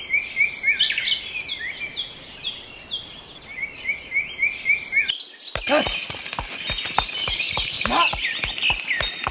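Birds chirping in repeated short calls. About halfway through, a quick, even clip-clop of horse hooves starts under the birdsong.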